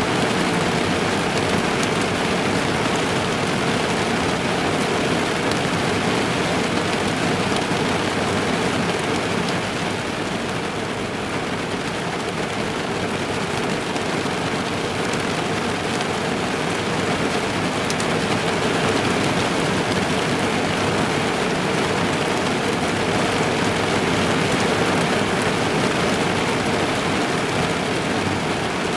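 Steady rain drumming on a car's roof and windows, heard from inside the car, a dense even patter with occasional sharper drops.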